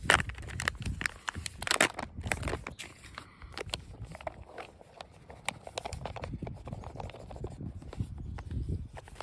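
Freeze-dried meal pouch crinkling, with irregular clicks and scrapes, over a low rumble of wind on the microphone.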